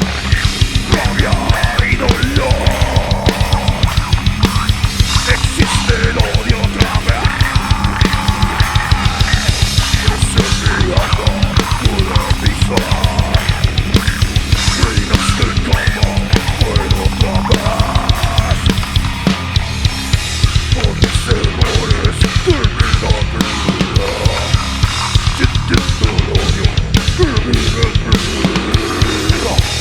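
Death metal band playing live: loud distorted music over fast, dense drumming with a busy kick drum and hi-hat.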